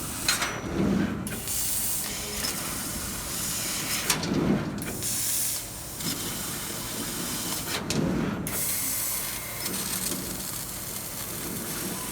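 Fiber laser cutting machine at work: a steady hiss of assist gas, broken three times at even intervals of about 4 s. Each time the hiss cuts out for under a second and a short, louder low sound takes its place.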